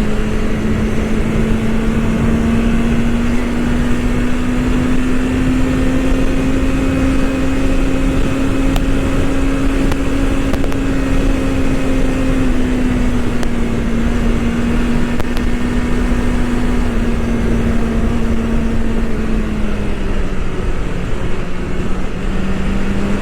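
BMW S1000RR's inline-four engine running at steady revs under way, the pitch creeping up, easing off after the middle, dipping near the end and picking up again, over a constant rush of wind noise.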